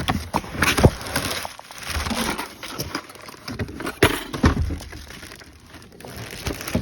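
Packaging crinkling and rustling, with irregular sharp clicks and knocks, as a new center console lid is unpacked and handled.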